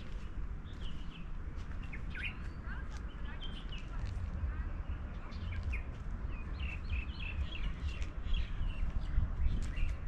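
Small birds chirping, with many short, quick calls that grow busier in the second half, over a steady low rumble.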